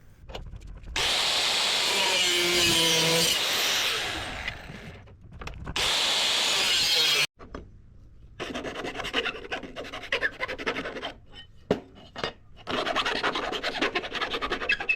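Aluminium angle edging being sawn to length. There are two loud, steady runs of cutting, the second cutting off abruptly about halfway through, followed by a stretch of quicker scraping strokes.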